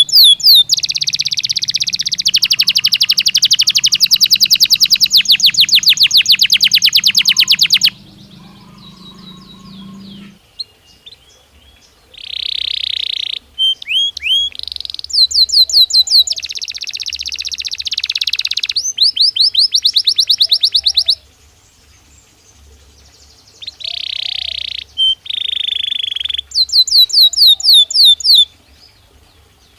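Belgian canary singing: fast trills of rapidly repeated high notes in phrases several seconds long, broken by short pauses.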